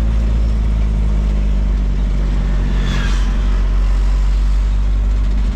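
Truck engine running with a steady low drone while driving, with road noise and a brief higher-pitched sound about three seconds in.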